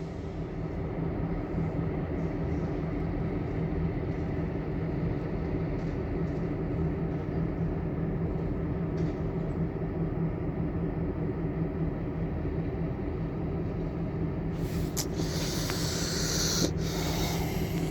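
Diesel locomotives of a stopped freight train idling, a steady low hum, with a loud hiss lasting about three seconds near the end.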